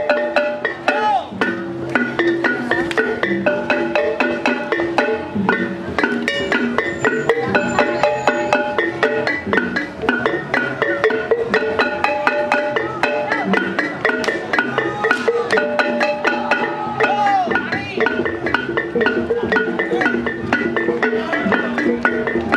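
Javanese gamelan music playing: struck metal keyed instruments ringing out in a steady rhythm, with voices over it at times.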